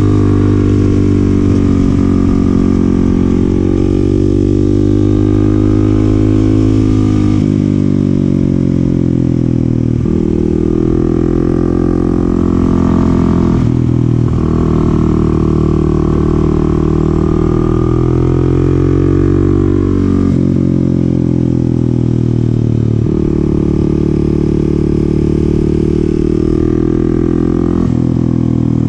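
The 2022 Kawasaki KLX300SM's single-cylinder engine under way, its pitch rising and falling with the throttle and breaking sharply several times as it shifts gear.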